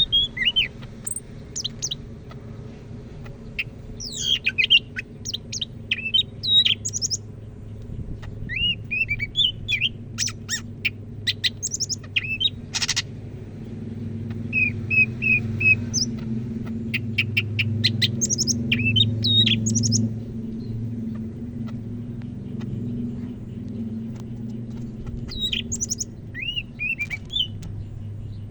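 Cucak ijo (leafbird) singing loudly and busily: phrase after phrase of varied whistles, chirps and rapid clicking notes, with short pauses between phrases. A steady low hum runs underneath, stronger in the middle.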